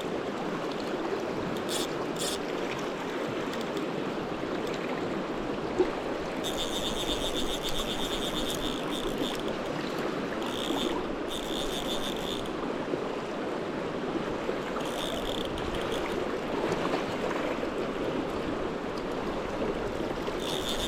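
Steady rushing river water, with a fishing reel clicking in several runs of a few seconds each while a hooked fish is played in the current.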